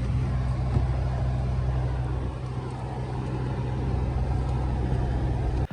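Four-wheel-drive vehicle driving, a steady engine hum and road noise heard from inside the cab, cutting off suddenly at the end.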